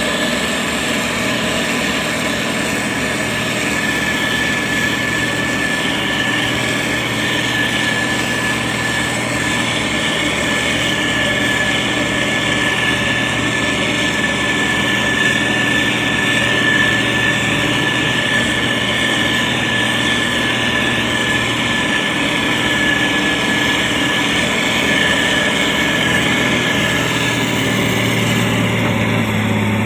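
Diesel engine of a SANY STG190C-8S motor grader running steadily under work, with a constant high whine over the engine note.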